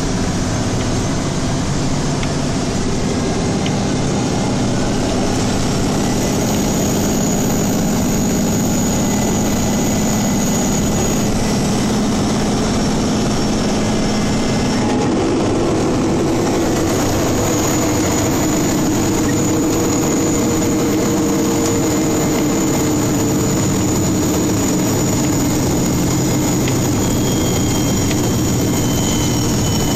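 Steady engine and road noise inside the cab of a snowplow truck on the move. The engine's hum rises in pitch about halfway through.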